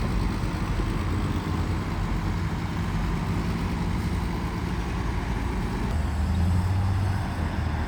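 Heavy diesel engine of earthmoving machinery running steadily under work, with a brief rise in engine note about six seconds in.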